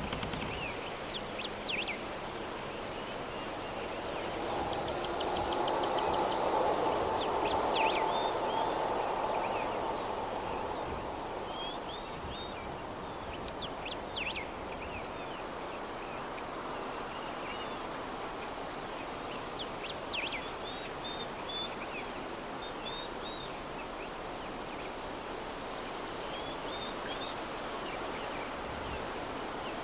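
Soft, steady breeze with small birds chirping now and then in short, high calls and quick upward trills. The breeze swells for a few seconds about a quarter of the way in, then settles back.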